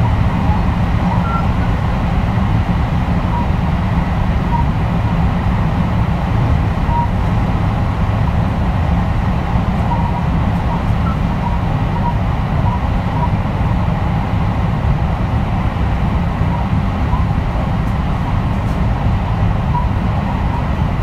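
Running sound of a JR West 223 series 2000-subseries electric train travelling at a steady speed: a steady, heavy rumble of wheels on rail, with no rise or fall in pitch.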